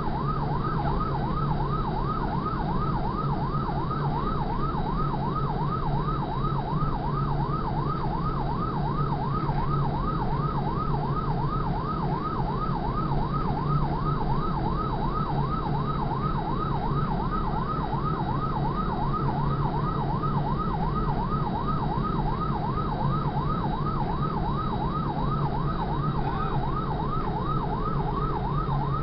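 Fire engine siren in yelp mode: a fast wail sweeping up and down about three times a second, unbroken, over the steady drone of the truck's engine.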